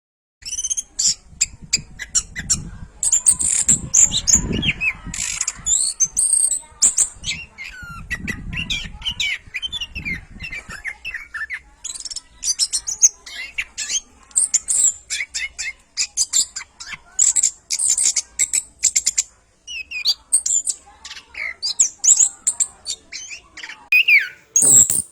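Orange-headed thrush (anis kembang) in full song: a fast, varied run of high whistles, chirps and clicking notes with only brief pauses. A low rumble sits underneath twice in the first half.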